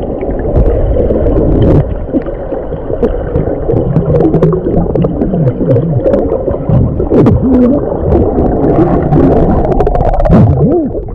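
Creek water gurgling and churning, heard muffled as if underwater, with many short bubbling pitch sweeps and scattered clicks.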